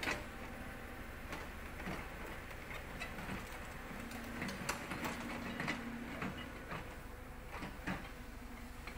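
Caterpillar 320D excavator's diesel engine running steadily, with irregular metallic clanks and knocks about once a second and a low hum that swells for a couple of seconds midway; the hydraulic breaker is not hammering.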